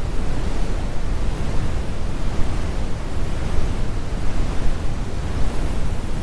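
Steady, deep brown noise generated by algorithm, a constant low rumble with the high frequencies rolled off.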